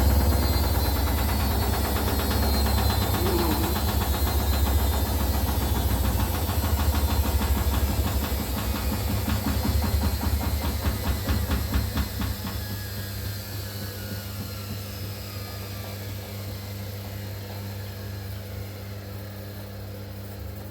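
Hoover Dynamic Next front-loading washing machine spinning down at the end of its spin cycle: a loud drum-and-motor hum with a rapid rhythmic beat that fades after about twelve seconds, while a motor whine falls in pitch as the drum slows.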